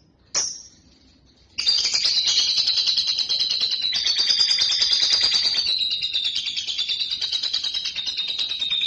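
Lovebird giving a short chirp, then launching about a second and a half in into a long, unbroken, rapid chattering trill, its song held on without pause.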